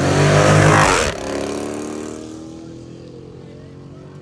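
A car engine revving hard as the car accelerates past, loudest about a second in, then cutting back sharply and fading as the car drives away.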